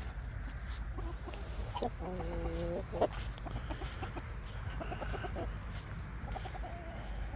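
Domestic hens clucking: a drawn-out call about two seconds in, then short runs of quick clucks later on. A single sharp click just after the drawn-out call is the loudest sound.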